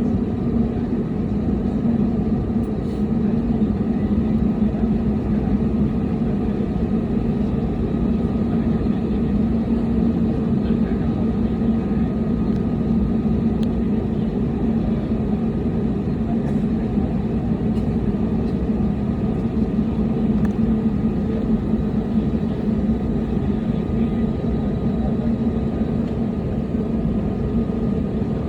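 Steady drone inside an airliner's cabin: the jet engines running evenly with a constant low hum, with no spool-up.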